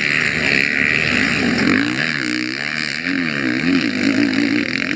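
Motorcycle engines revving, their pitch rising and falling again and again, over a steady noisy hiss.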